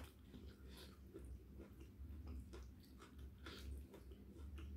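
Close-up mouth sounds of chewing food: faint, irregular wet clicks and smacks, over a steady low hum.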